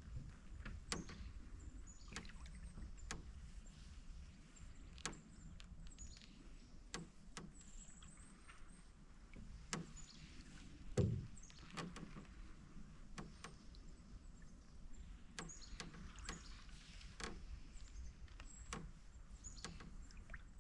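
Canoe paddling: paddle strokes and drips in the water, with scattered small clicks, taps and creaks from the canoe. There is one heavier thump about eleven seconds in.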